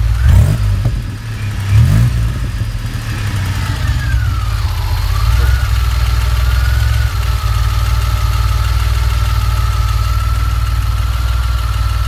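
DeLorean DMC-12's V6 engine through a stainless DeLoreanGo sports exhaust, blipped twice in quick succession near the start and then settling into a steady idle.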